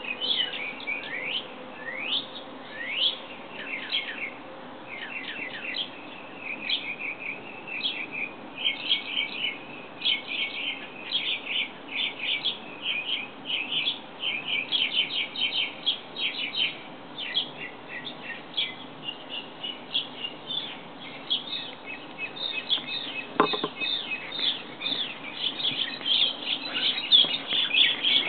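Small birds chirping busily, a near-continuous run of quick chirps and down-slurred notes, with one sharp click about three-quarters of the way through.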